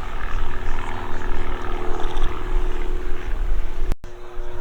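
Grob Tutor light trainer's propeller and four-cylinder piston engine running steadily. It cuts out abruptly for an instant near the end and comes back on a slightly different note.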